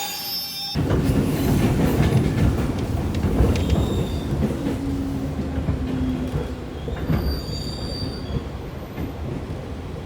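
Commuter train running on rails: a heavy, steady rumble of wheels and carriage that starts abruptly about a second in, with thin wheel squeals over it.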